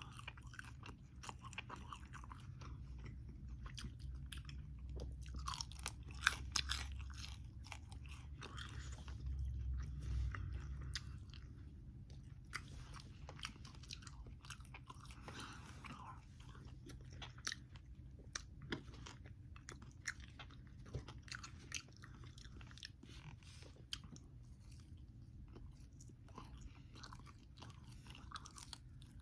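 Close-up chewing of crispy cooked bacon: irregular crunches and wet mouth clicks, with a low steady hum underneath.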